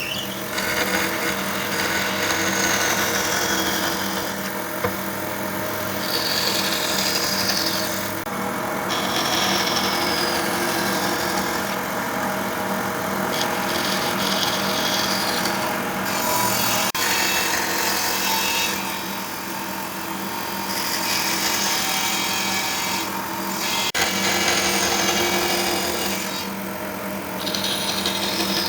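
An electric power tool working wood, its motor running with a steady hum under a rough noise that swells and eases every few seconds.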